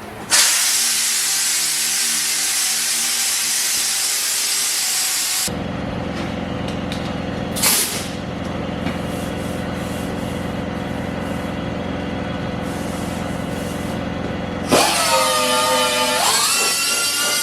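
Dual-action (DA) sander fitted with 220-grit paper running on car bodywork: a loud hiss for about the first five seconds, then a steadier, lower running sound, with a short sharp noise about eight seconds in. Near the end the sound changes to a whine that drops in pitch, then holds steady.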